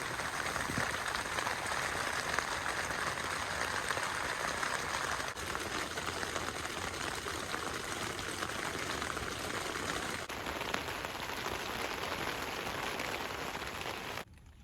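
Steady rain falling, an even hiss of drops with no distinct strokes, which cuts off suddenly near the end.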